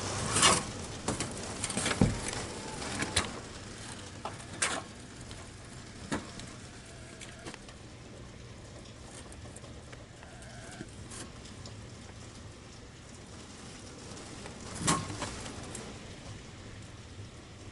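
Steady noise of pouring rain and wind, with a cluster of sharp knocks and taps in the first few seconds and another knock about fifteen seconds in.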